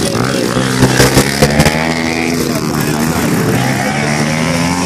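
Mini dirt bike engines running and revving, with a few sharp knocks about a second in.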